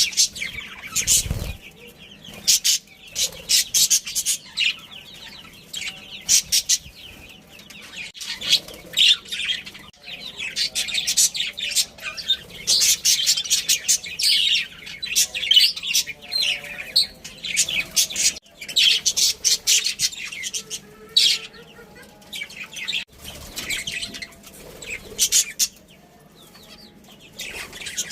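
Budgerigars chirping and chattering in rapid, high-pitched bursts of calls, broken by short lulls.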